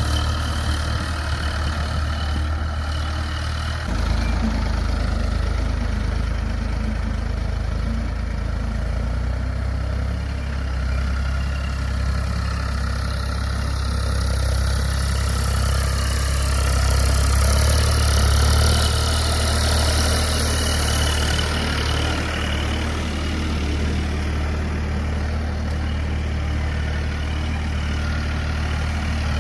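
Ford 3600 tractor's diesel engine running steadily, its low note shifting about four seconds in, and growing a little louder with added hiss about two-thirds of the way through.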